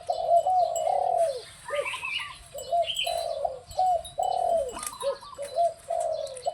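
Decoy dove cooing in repeated phrases of low, curving notes, with short pauses between them, and fainter higher chirps over the top.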